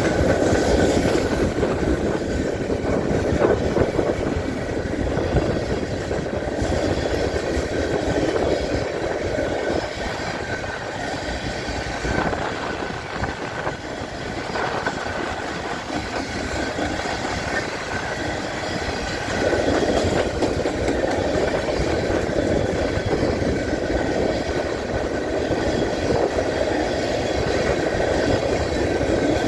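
Freight train's covered hopper cars rolling past close by: a steady rumble and clatter of steel wheels on the rails, easing off somewhat in the middle and swelling again after about twenty seconds.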